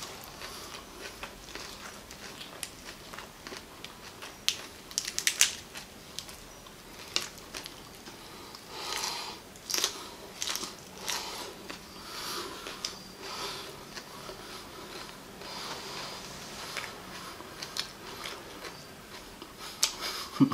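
Close-up chewing of raw agati (Sesbania grandiflora) flowers, an uneven run of crisp crunches as the petals are bitten and chewed, loudest about five seconds in and again around ten seconds.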